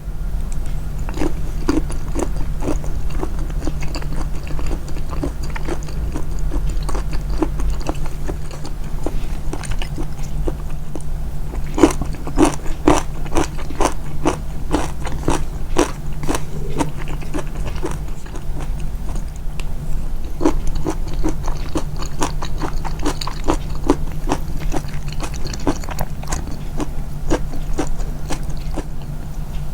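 Close-miked chewing: wet mouth clicks and soft crunches in runs of about three bites a second, with short pauses, over a steady low hum.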